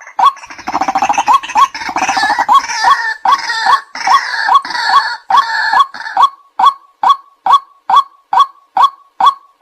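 White-breasted waterhen calling, a clipped 'kwak' note repeated about two and a half times a second. From about half a second to six seconds in, a rougher, denser croaking chatter joins it, and then the plain repeated note goes on alone.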